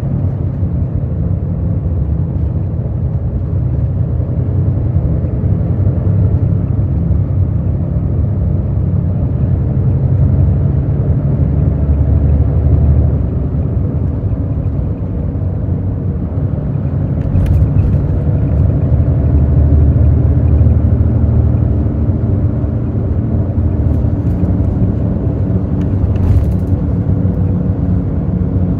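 Hino J08E-VD inline-six diesel of a Hino RN8JSVU bus running under way, with a steady low rumble and road noise heard from inside the bus. The engine pulls harder twice, easing off briefly in between, and a few short sharp clicks or rattles come in the second half.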